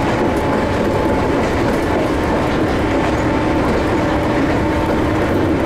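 Ohmi Railway 800 series electric train running between stations, heard from inside the car: a steady rumble of wheels and running gear on the track, with faint steady tones on top.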